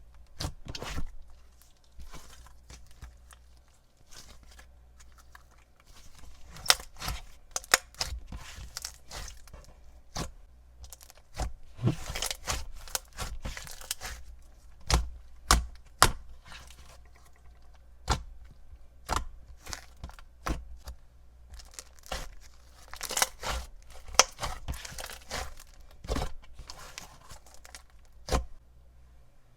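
Slime being squished and stretched by hand, giving irregular crackling pops and clicks.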